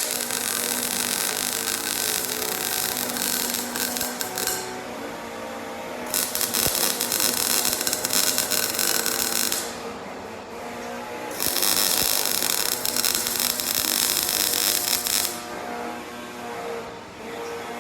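A power tool worked on steel roll-cage tubing in three bursts of about four seconds each, with a high whine and harsh hiss in each burst and quieter gaps between them.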